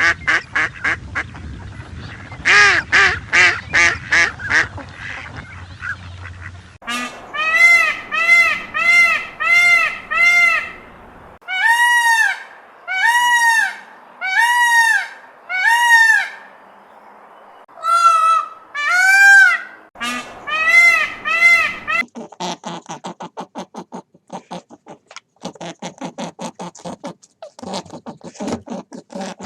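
A run of different animal calls, cut one after another. First come fast cackling calls for several seconds, then loud honks repeated about once a second, then a rapid chattering run of short calls for the last several seconds.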